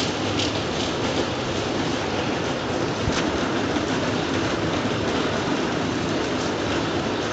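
Steady rain: a dense, even hiss with a few faint taps of drops.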